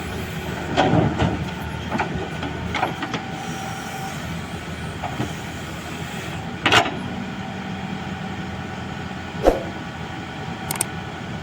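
Heavy diesel machinery running steadily with a low engine hum, broken about six times by sharp metallic clanks and knocks.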